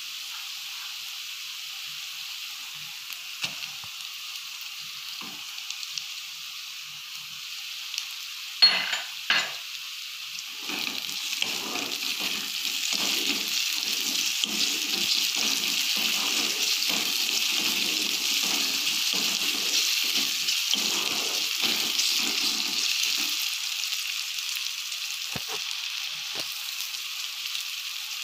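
Chopped onion sizzling in hot oil in a kadai. About nine seconds in, two sharp knocks as chopped tomato goes into the pan; the sizzle then grows louder while a wooden spatula stirs and scrapes in quick strokes for about twelve seconds, before the sizzle settles back.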